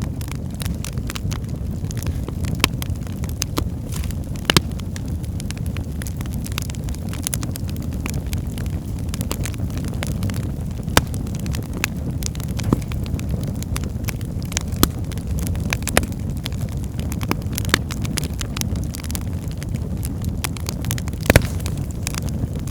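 Wood fire burning in a fireplace: a steady low rumble of the flames with irregular sharp crackles and pops from the burning logs. The loudest pop comes near the end.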